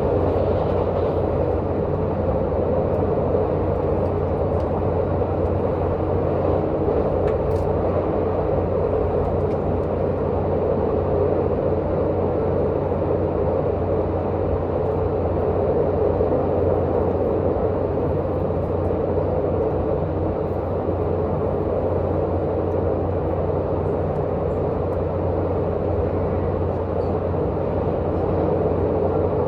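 Tze-Chiang diesel multiple unit running steadily: an even drone of its diesel engine mixed with wheel and rail noise, heard from inside the carriage.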